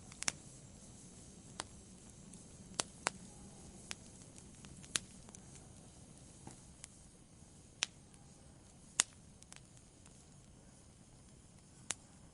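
Wood campfire burning quietly: sharp, irregular crackles and pops of the burning wood, about nine in all, over a faint low hiss of the flames.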